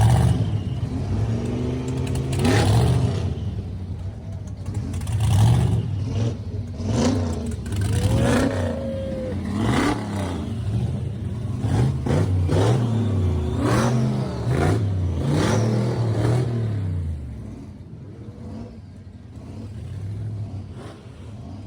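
Blower-supercharged pro street hot rod engine being revved repeatedly, the pitch rising and falling with each rev in quick succession. It settles back to idle about three-quarters of the way in.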